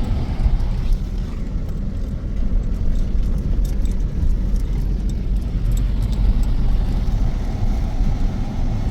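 Wind buffeting the microphone in a snowstorm: a loud, low, uneven rumble.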